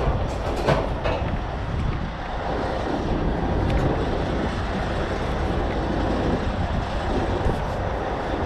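Heavy truck diesel engine running steadily through a recovery pull, with a couple of short metallic knocks about a second in.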